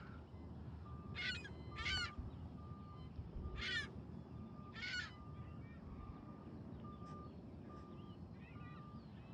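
Flight variometer beeping a regular string of short, evenly pitched tones, the climb signal of a glider rising in a thermal. Four louder chirping calls cut in about one, two, three and a half and five seconds in, over a low wind rumble.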